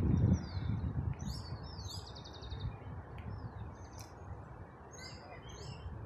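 Small songbirds chirping: short, high calls that sweep downward, with a fast trill about a second and a half in and another cluster of chirps near the end, over a steady low rumbling noise.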